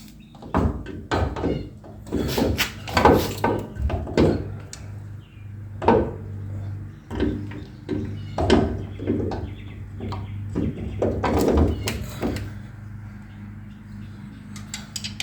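Irregular metal clunks, knocks and scrapes as a front suspension strut is worked back into place, over a steady low hum.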